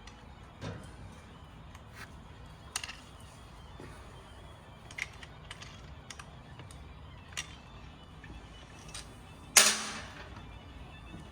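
Scattered light metallic clicks and knocks of motorcycle parts being handled while the front wheel is fitted into the fork, with one louder knock about nine and a half seconds in.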